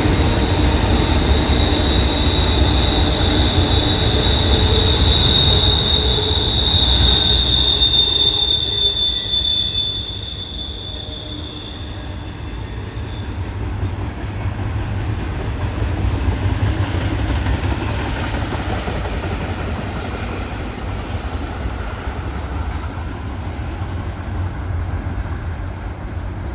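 Train passing on the tracks with its wheels squealing: one steady high-pitched squeal over a low rumble. The squeal fades out about halfway through, and the rumble gets somewhat quieter around the same time.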